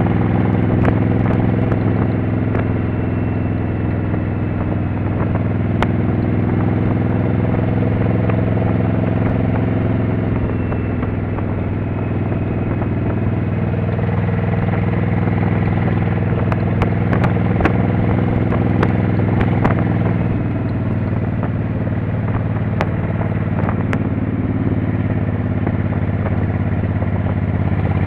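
Motorcycle engine running steadily under way, its note shifting about twelve seconds in and again about twenty seconds in, with a few sharp ticks scattered through.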